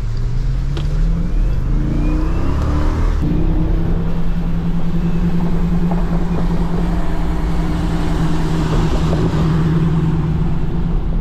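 Jeep SRT's V8 accelerating, its pitch climbing for the first few seconds, then settling into a steady drone at cruise, over road noise.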